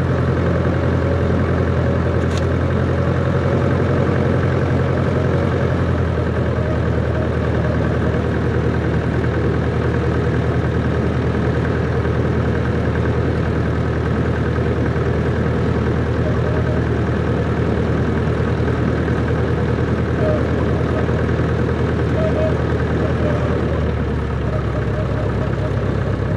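Cessna 140's four-cylinder piston engine running steadily, its note shifting slightly about six seconds in and again near the end. A brief click about two and a half seconds in.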